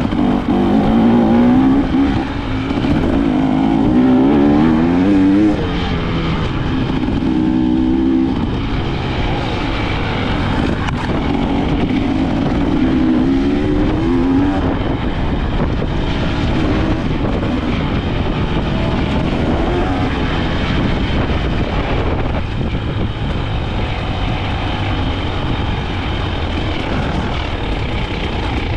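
KTM 300 XC-W's 300 cc two-stroke single-cylinder engine being ridden, its pitch rising and falling with each blip of the throttle, over a steady rush of wind and riding noise.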